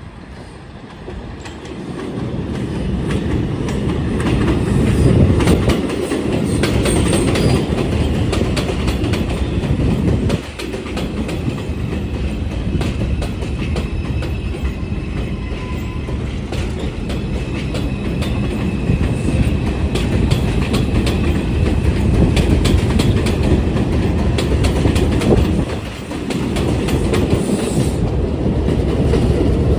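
New York City Subway R142 trains running through the station on elevated track: a steady loud rumble with wheels clicking over rail joints. The loudness dips briefly twice, near ten and twenty-six seconds in.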